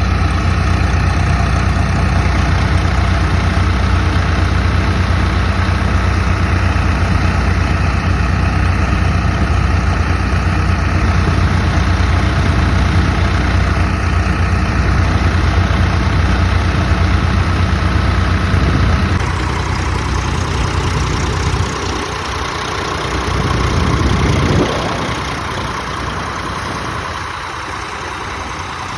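Swaraj 744 tractor's three-cylinder diesel engine running steadily, then changing note about two-thirds of the way through, with a brief rev rising in pitch before it settles to a lower, quieter run.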